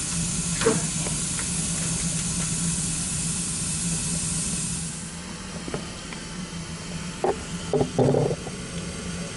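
Steady hiss from a running gas water heater, cutting off about five seconds in, over a steady low hum. A few short knocks follow near the end.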